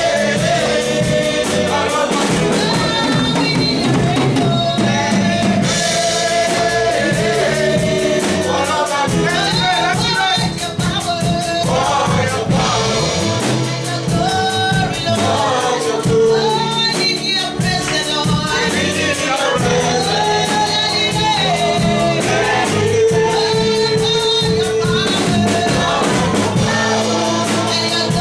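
Gospel worship song: a choir of voices singing a melody over a band with a steady beat.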